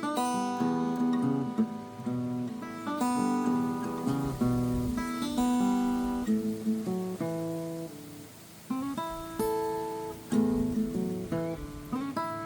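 Steel-string acoustic guitar playing an acoustic blues phrase of plucked notes that ring on, with a short break about two-thirds of the way through.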